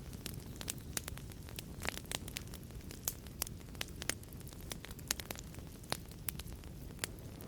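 Wood fire burning in a fireplace, crackling with many sharp irregular pops over a low steady rumble of the flames.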